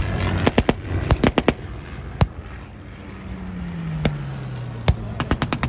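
Blank gunfire: scattered single shots and short rapid strings of shots. An engine passes in the middle, its pitch falling.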